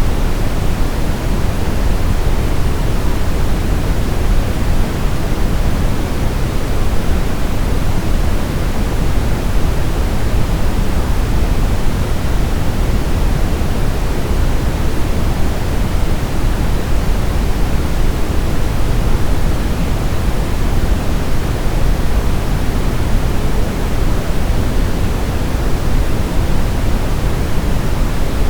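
Brown noise: a steady, even hiss-rumble with most of its weight in the low end, unchanging throughout.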